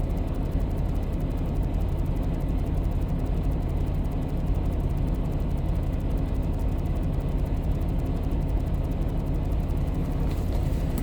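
Semi truck's diesel engine idling, a low, steady hum that does not change.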